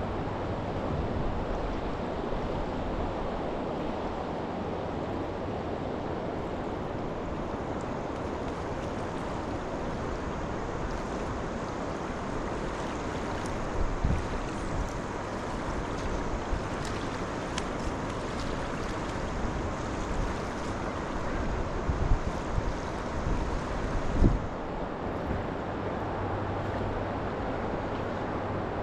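Steady rush of flowing river water, with wind on the microphone and a few short low bumps in the second half.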